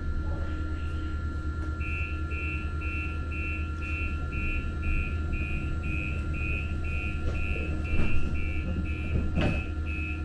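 Light-rail car's door warning beeping, an even run of high beeps about two a second starting about two seconds in, over the steady low hum of the stopped train. A sharp thump comes near the end.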